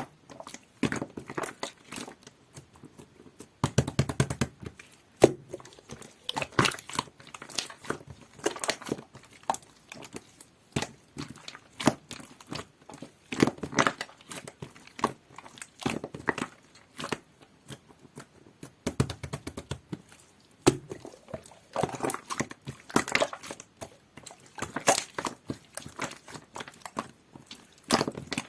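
Mint two-layer jelly-textured slime being squished and pressed by hand, making wet crackling clicks and pops in irregular clusters.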